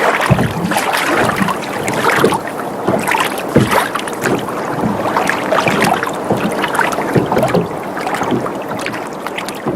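Water sloshing and lapping against a sailboat's hull as it rocks, a steady wash broken by frequent small, irregular slaps and splashes.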